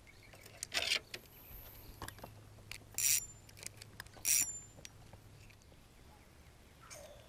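Three short, harsh calls from a bird, unhappy-sounding, spread over about four seconds, with a fainter one near the end, over a low steady hum that stops a little past halfway.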